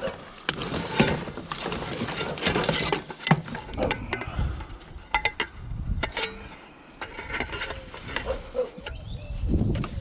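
Irregular knocks, clatter and rustling of scrap items being rummaged through and moved by hand.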